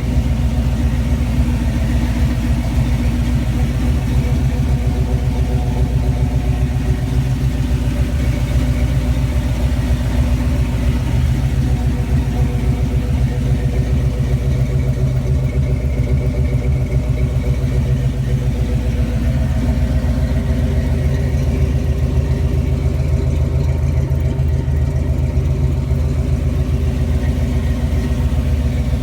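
1980 Jeep CJ7 engine idling steadily, its firing pulses even, with no revving.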